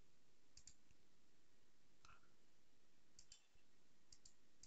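Near silence with several faint computer mouse clicks, some in quick pairs, over a low room hiss.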